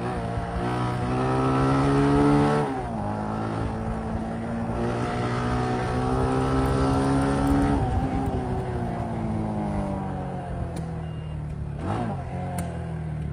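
Motorcycle engine accelerating hard twice, its pitch climbing steadily and then dropping sharply each time the throttle closes. It then runs at lower revs, falling slowly, with a quick dip and rise in pitch near the end.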